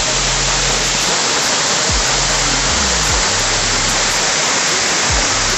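Waterfall water rushing in a loud, even wash of noise. Under it, hip-hop background music plays, with deep bass notes that slide down in pitch several times.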